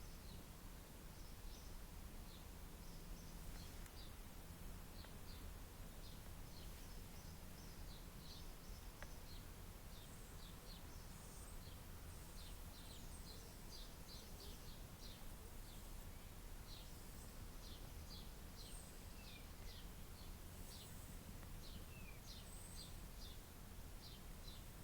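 Faint birds chirping: many short, high chirps, more frequent after the first several seconds, with a few falling notes, over a low steady rumble.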